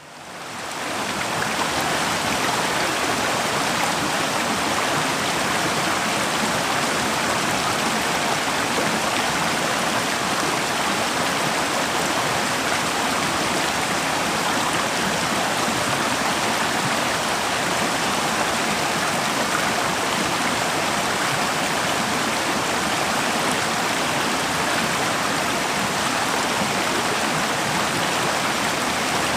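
Forest river flowing, a steady rush of water that fades in over the first second or so.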